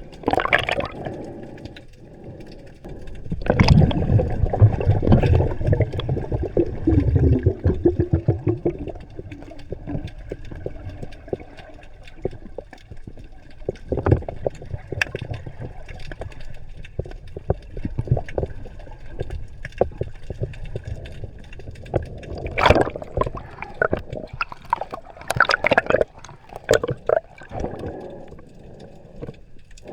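Underwater bubbling and gurgling, in two long crackling bursts of rising air bubbles (from about three seconds in and again past twenty seconds), with scattered clicks between them. This is the typical sound of a scuba diver's exhaled breath.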